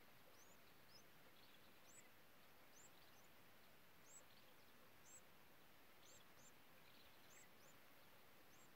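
Near silence with faint, thin, high-pitched bird chirps about once a second, often in pairs, over a quiet hiss.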